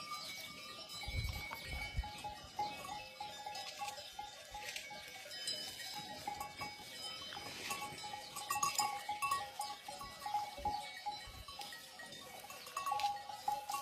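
Bells worn by a flock of goats clanking and ringing continuously, with scattered sharp clicks and a few dull thumps about a second in.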